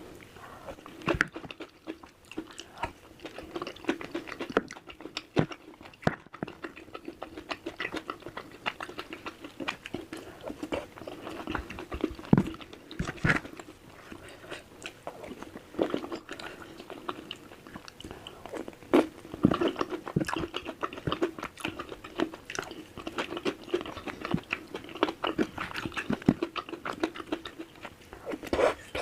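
Close-miked mukbang eating sounds of a person chewing and biting spicy baso aci, with many irregular wet mouth clicks and smacks and occasional crunches.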